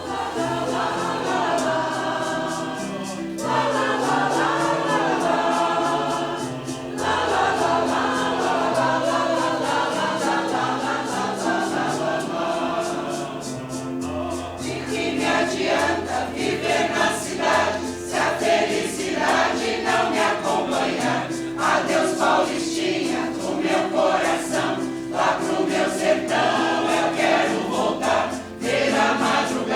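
Choir singing with electronic keyboard accompaniment holding low notes underneath. About halfway through, the singing turns more rhythmic, with short, clipped notes.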